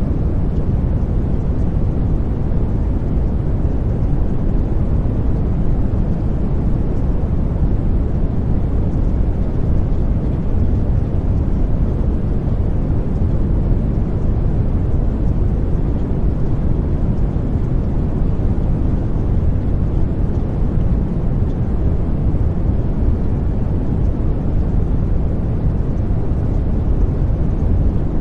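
Steady, unchanging low rumbling noise, the masking sound bed of a subliminal-affirmation track.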